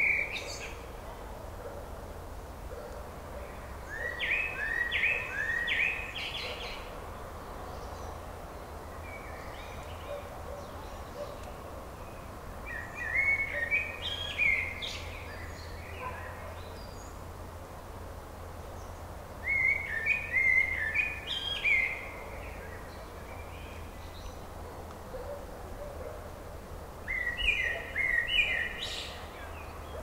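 A songbird singing the same short phrase of quick repeated notes, about two seconds long, four times with several seconds between, over a steady background hiss.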